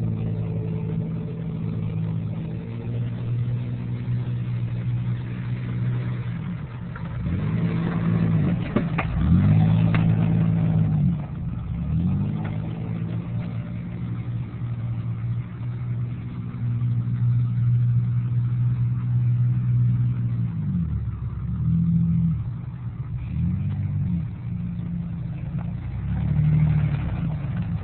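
Truck engine revving hard and easing off again and again, its pitch sweeping up and down, with a sharp knock about nine seconds in.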